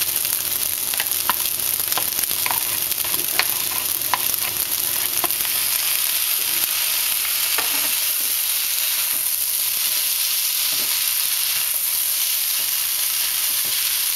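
Chicken fried rice sizzling in a hot wok as a spatula stirs and turns it, with a steady sizzle and scattered scrapes and taps of the spatula against the pan, more of them in the first half.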